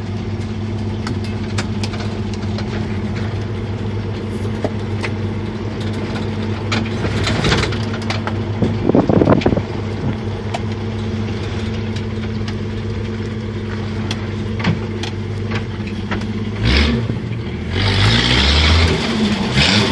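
1977 Jeep CJ5's engine running steadily under way off-road, with scattered sharp clicks and knocks. A louder burst of noise about nine seconds in, and the engine note changes, louder, near the end.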